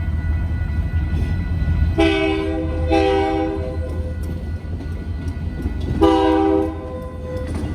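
Diesel freight locomotive's multi-note air horn sounding for a grade crossing: two blasts close together about two seconds in, then a longer one about six seconds in. Under the horn runs the steady low rumble of the locomotive and train.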